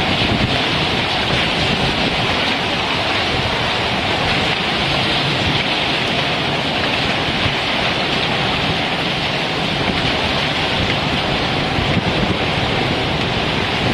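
Hailstorm downpour: a steady, dense hiss of heavy rain and hail pelting down, with a low rumble underneath.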